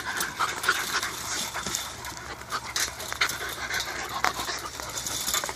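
Pit bull puppies panting and moving about, with irregular short clicks and taps throughout.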